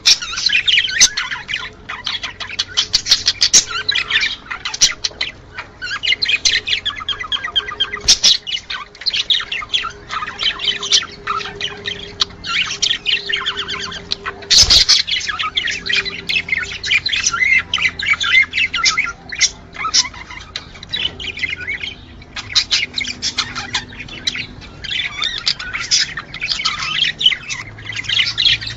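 Several budgerigars chattering and warbling nonstop in fast, overlapping chirps and squawks, the busy calls of budgies in mating season. A single sharp click sounds about halfway through.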